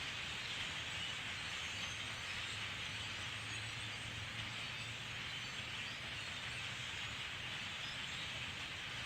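A huge flock of birds calling all at once: a dense, steady chatter of countless overlapping chirps, with a low hum underneath.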